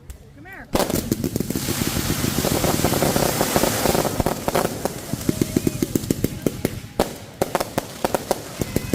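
Fireworks going off: a dense burst of crackling breaks out suddenly about a second in, then turns into a rapid run of sharp pops, about five a second.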